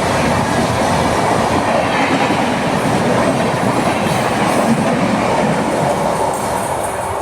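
Train running past on the rails, a loud, steady noise of wheels and cars that begins to fade near the end.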